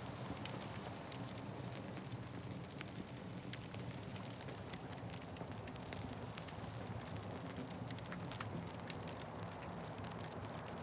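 Wood fire crackling, with scattered sharp pops and snaps over a steady low rush.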